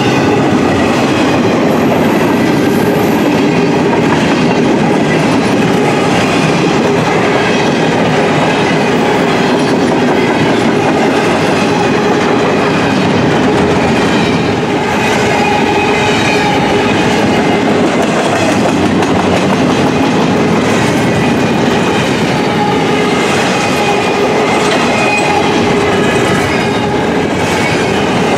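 Freight train cars rolling past at speed, a loud, steady noise of steel wheels on the rails that does not let up.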